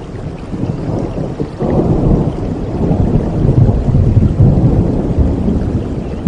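A low rumble of thunder that swells suddenly about a second and a half in and keeps rolling, over a steady hiss of rain.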